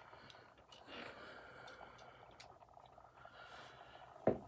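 Quiet handling noises: a few light clicks and some rustling, then one short thump near the end.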